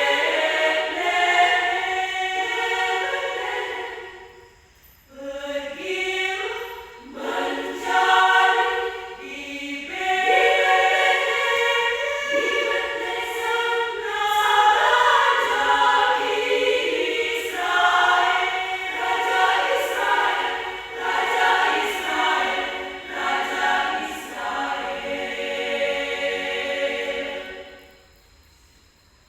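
Women's choir singing in several parts, with a short break in the phrase about five seconds in. The singing ends near the end.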